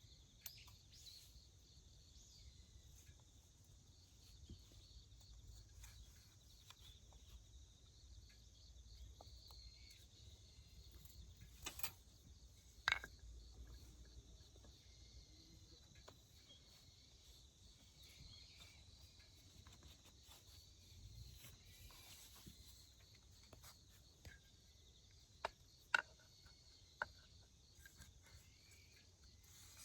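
Faint outdoor ambience of insects chirping steadily, broken by a few sharp clicks or knocks, a pair near the middle and a cluster near the end.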